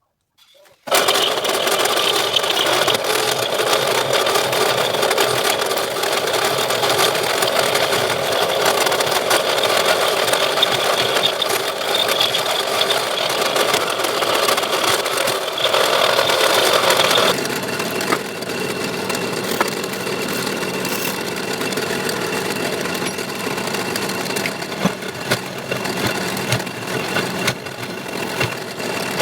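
Electric drill motor running steadily as the drive of a homemade lathe, with the turning tool scraping against the spinning workpiece; the sound changes about two-thirds of the way through.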